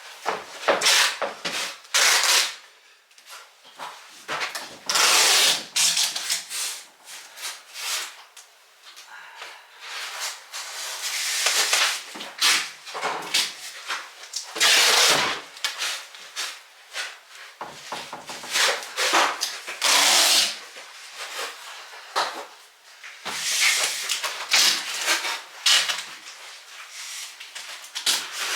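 Power tool working the door in short, irregular bursts of a second or two, with quieter handling noise between them.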